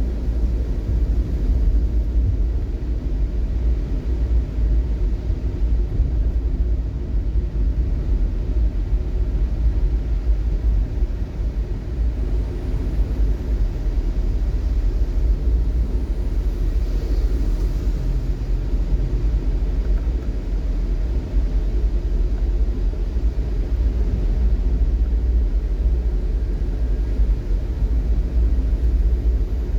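Steady low rumble of a vehicle on the move: engine and road noise, heaviest in the deep bass.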